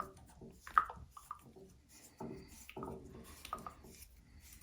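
Scattered small clicks, knocks and scrapes of hands working on an old shower head fitting as it is unscrewed.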